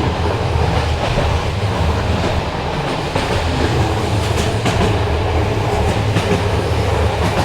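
Passenger train running along the rails, heard from inside a carriage: a steady low rumble with a few light clicks from the wheels and coach.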